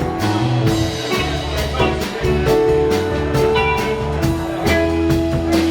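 Live rock band playing an instrumental passage: electric guitar holding and bending notes over bass and a steady drum beat.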